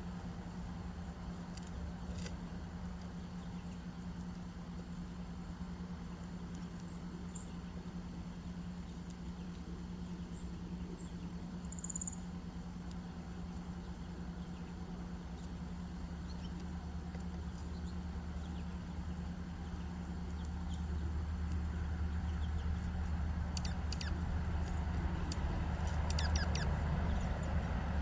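Steady low hum that grows louder after about twenty seconds, with a few faint, short, high chirps from small birds.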